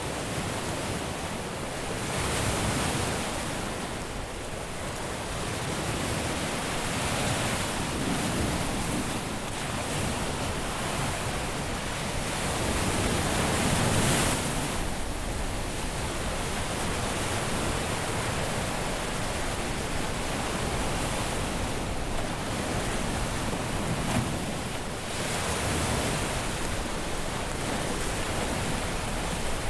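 Caribbean sea waves breaking and washing up a beach, a steady surf wash that swells and ebbs every few seconds, with one larger wave about 14 seconds in.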